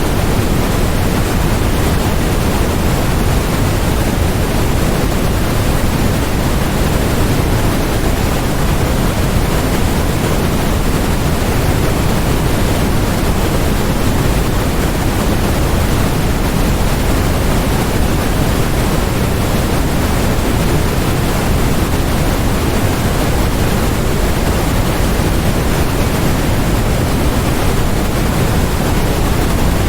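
Steady, unchanging synthetic noise from a white-noise track. It is an even hiss that is heavier in the deep rumble than in the treble, much like pink noise.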